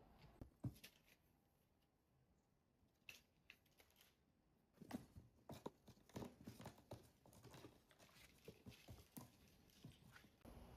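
Faint household handling sounds: scattered clicks, taps and rustling, sparse at first and coming thick and fast in the second half.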